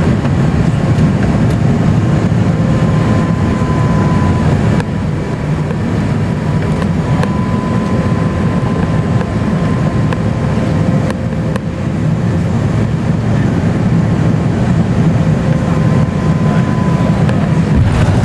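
Steady low rumble inside the cabin of an Airbus A350-900, with a faint steady whine from its Rolls-Royce Trent XWB engines.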